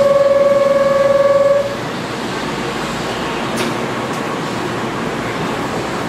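A loud steady single-pitched tone sounds and cuts off about a second and a half in, then an electric train pulls away from the platform with a steady rumble of motors and wheels.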